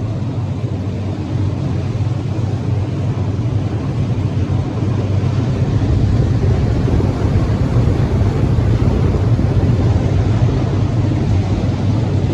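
Ferry engines running with a steady low drone, the boat still at the pier.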